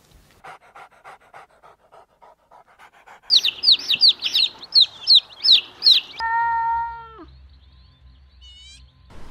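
Baby chicks peeping: a loud run of high, downward-sliding cheeps, about three a second, for some three seconds. Before it there is faint rhythmic snuffling at about four puffs a second. After it comes one long, level call that drops off at its end, then a brief high chirp.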